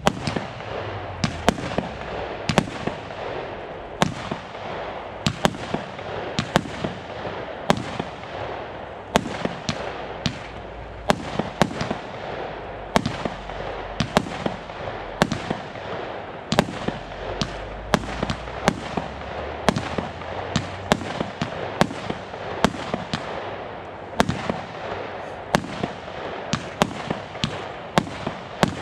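Consumer fireworks battery (cake) firing a long run of shots: sharp bangs about one or two a second over a continuous hiss and crackle.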